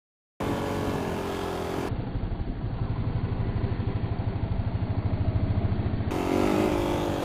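Motorcycle engine running, starting abruptly after a moment of silence, with a fast even pulsing from the exhaust through the middle stretch and a steady pitched note again near the end.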